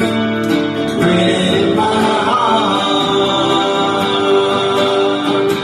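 Live music: a man singing with guitar accompaniment.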